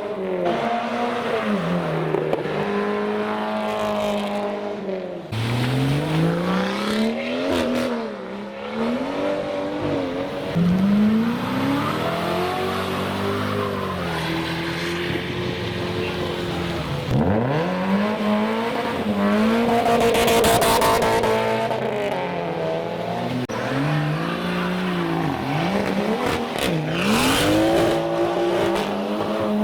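Modified cars accelerating away one after another, engines revving up and dropping back through gear changes, with hissing tyres on a wet road.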